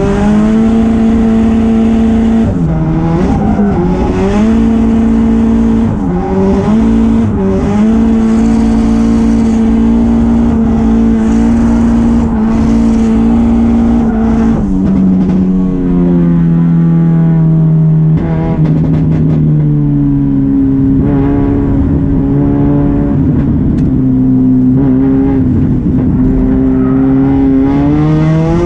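Hyundai Genesis Coupe drift car's engine from inside the cabin, held at high revs with short dips as the throttle is worked. Past the middle the revs drop lower for several seconds, then climb back up.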